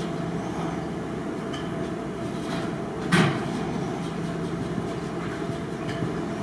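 Drawing strokes of a pen on a surface: faint scratches, with one sharper stroke about three seconds in, over a steady background hum.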